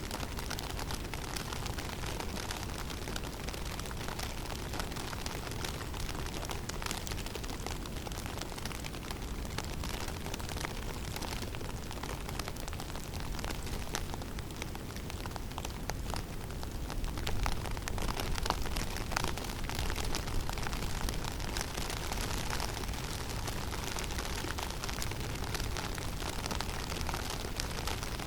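Snowstorm wind blowing through a conifer forest: a steady rushing noise with a deep rumble and a fine crackle, swelling in a stronger gust a little past halfway.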